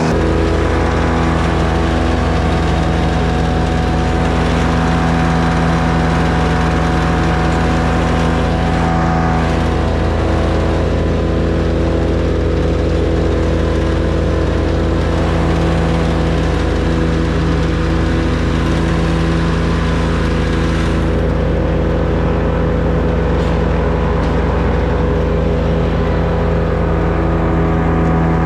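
A small engine running steadily at a constant speed, with no revving or change in pitch.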